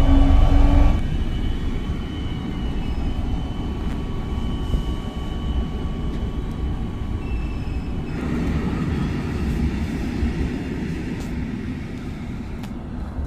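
Steady low rumble of a moving vehicle. A set of steady tones cuts off about a second in.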